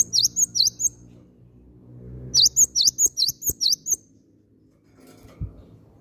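Cinereous tit (gelatik batu) singing: two quick runs of sharp, repeated high chirps, one at the start and a longer one about two seconds in. A few soft low thumps are heard beneath it.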